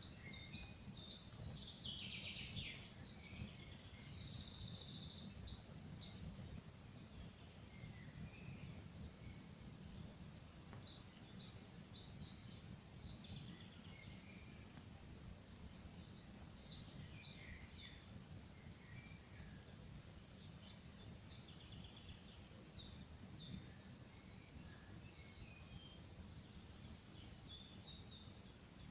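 Songbirds singing in repeated bright trilling phrases, in several bouts over the first half and softer twittering later, over the steady low rush of a burning campfire.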